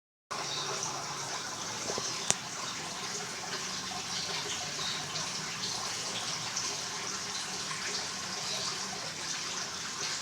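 Water running steadily, with a single sharp click about two seconds in.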